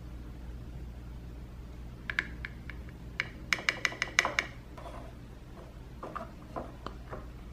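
Small hard-plastic clicks and taps as the parts of a plastic toy-toilet candy kit are handled: a few clicks, then a quick run of about six, with softer knocks near the end.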